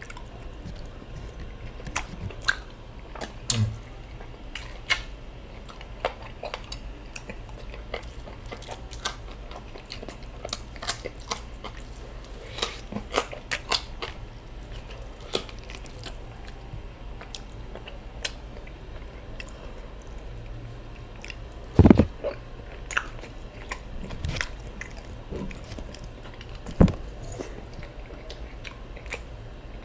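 Close-miked chewing and biting of a person eating rice and stew, with many short wet clicks and lip smacks. Two louder knocks stand out in the second half.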